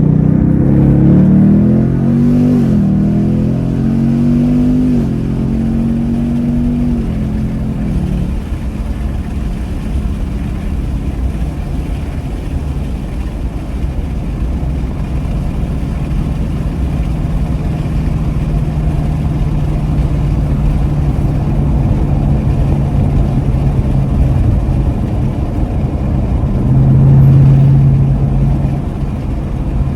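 2026 Ford Mustang GT's 5.0-litre Coyote V8 accelerating, its pitch climbing and dropping back several times in the first few seconds as it shifts up, then settling into a steady low rumble at cruise with road noise. Near the end it swells briefly louder before easing off again.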